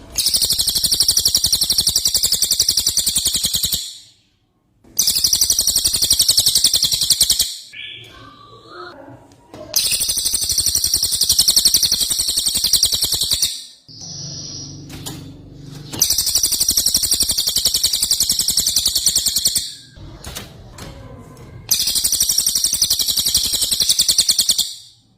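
Green leafbird (cucak ijo) singing harsh, very high, rapid-fire trills in five long bursts of about three to four seconds each, separated by short pauses. These are the fast 'cililin' shot phrases used in masteran tutor recordings.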